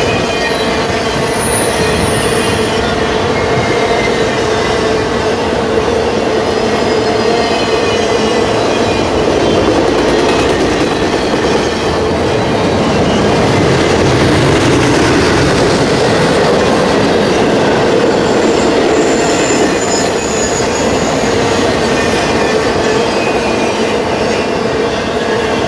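BNSF intermodal freight cars, trailer-carrying flatcars and double-stack well cars, rolling past at speed: a steady, loud rush of steel wheels on rail with a continuous whining wheel squeal.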